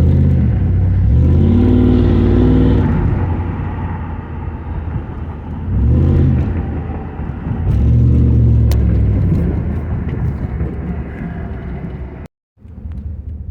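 Trans Am's V8 engine revving up in three surges, running cleanly on nearly year-old gasoline with its failed MSD ignition box bypassed. The sound cuts out briefly near the end.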